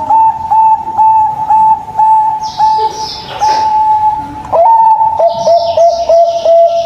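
Zebra doves (perkutut) cooing: runs of short, clear notes, about three a second, each starting with a quick upward slide. A long held note comes a little past the middle, then a second run at a lower pitch. A few high, falling chirps sound above the cooing.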